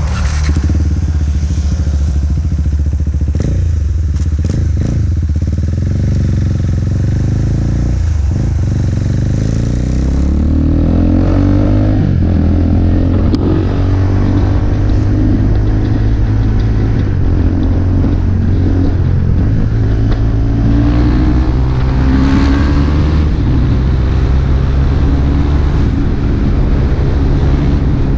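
KTM RC 390's single-cylinder engine running through an Akrapovic exhaust, with a steady note that climbs as the bike accelerates about ten seconds in and again later.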